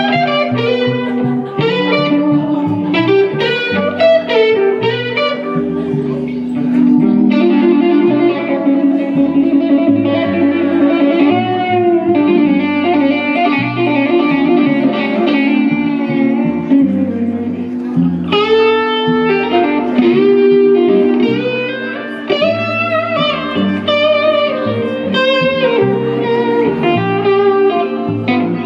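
Live electric blues band playing a slow blues: a lead electric guitar solos with bent notes over a walking bass line.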